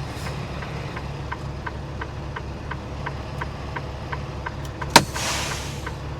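Semi truck's diesel engine idling with a steady low hum and a faint, even ticking about three times a second. About five seconds in, a sharp click is followed by a second of hissing air as one of the truck's air valves is worked.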